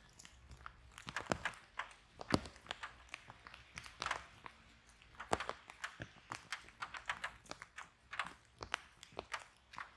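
Wood fire burning in a fireplace, with a faint low rumble of flames under irregular crackles and sharp pops, several a second. The loudest pops come at about two and a half seconds in and again near five and a half seconds.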